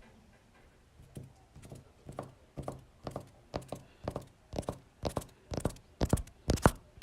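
Regular knocks, about two a second, starting faint about a second in and growing steadily louder.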